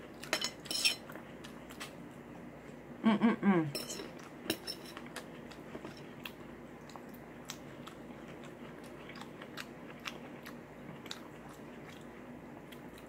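Chewing and crunching food, with light clicks of a metal fork against a plate. A short voiced murmur comes about three seconds in.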